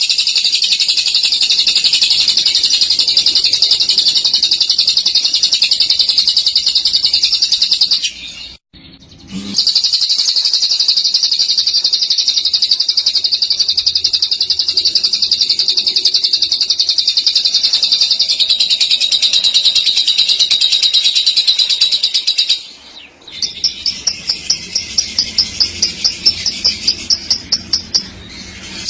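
Lovebird's long, unbroken high-pitched chattering trill (ngekek), breaking off briefly about eight seconds in and then running on. Near the end it stops and gives way to a string of separate quick chirps, about three or four a second.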